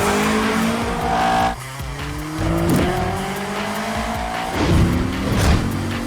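Film soundtrack of car engines accelerating hard, their pitch climbing steadily as they rev up, with tires squealing over background music. About a second and a half in the sound cuts abruptly and a new engine note starts low and climbs again.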